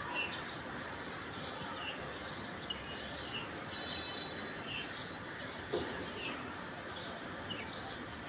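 Small birds chirping: short, high calls that fall in pitch, repeated about once or twice a second over a steady background noise. A brief knock about six seconds in.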